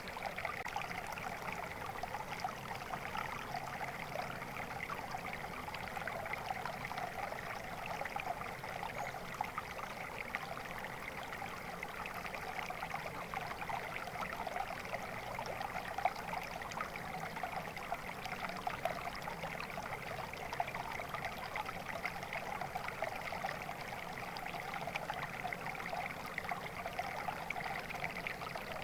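Flowing stream water, a steady babbling and trickling over stones.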